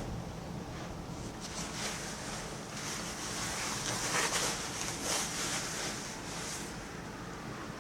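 Heavy rain and wind of a severe thunderstorm, a steady rushing noise that swells for a few seconds in the middle and then eases again.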